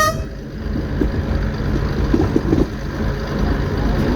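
Diesel multiple unit running along the line: a steady low rumble of the underfloor engine and wheels on the rails, with a few knocks from the track about two seconds in. The last of a horn blast cuts off right at the start.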